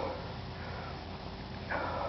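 Steady rushing noise with a faint low hum from a bicycle ride along a gravel trail.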